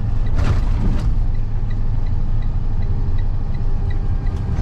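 Box truck driving, heard from inside the cab: a steady engine and road rumble, with a light ticking about three times a second from about a second in.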